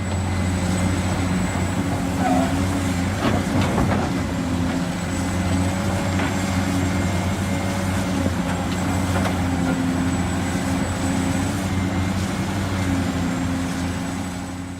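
A remote-control toy construction vehicle running with a steady low engine-like hum and a thin high whine, with a few light clicks about three to four seconds in.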